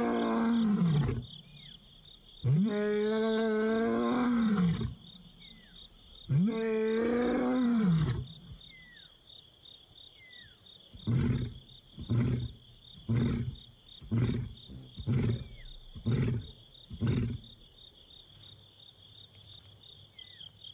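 A young male lion roaring: three long, drawn-out roars, then a run of about seven short grunts, roughly one a second. It is the contact call of a lion separated from its companion, calling to find him.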